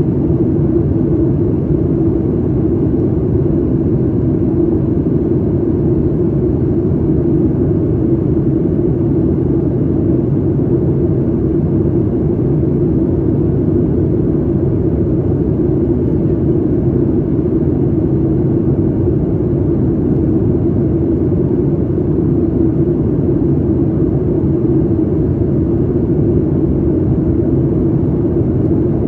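Steady drone of a Boeing 737 MAX 8 heard from inside the passenger cabin: engine and airflow noise at an even level, with a low hum that does not change.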